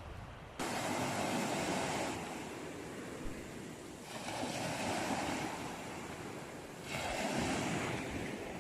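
Sea waves breaking on the shore: three rushing surges of surf, each swelling and then easing off, a few seconds apart.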